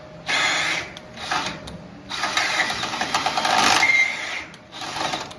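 A power tool run in several short bursts, starting and stopping, with a busy mechanical whirr.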